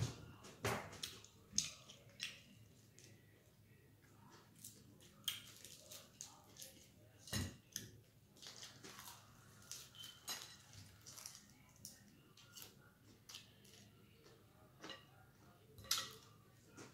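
Eating sounds: chewing and wet mouth smacks on fried chicken wings and a sub sandwich, with irregular soft clicks of food being handled on the plate. One sharper click about seven seconds in stands out.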